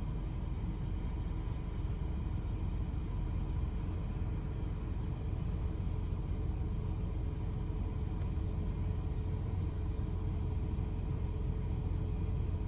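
Car driving along, a steady low rumble of engine and road noise with a faint steady hum above it.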